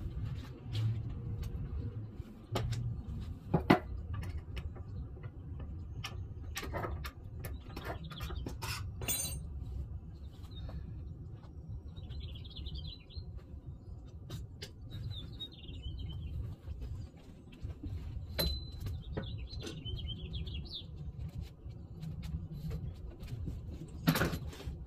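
Small birds chirping in a few short trilling calls partway through, over a steady low rumble, with scattered clicks and knocks and one sharp knock about four seconds in.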